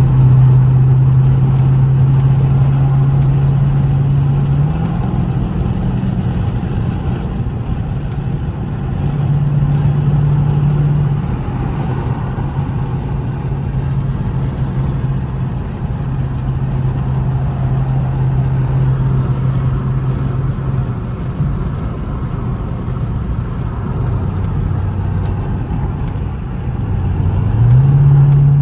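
Dodge Charger R/T's Hemi V8 exhaust, with mid muffler and resonator deleted, droning at highway cruise over road noise. The pitch shifts a few times, drops, then climbs near the end as the car picks up speed.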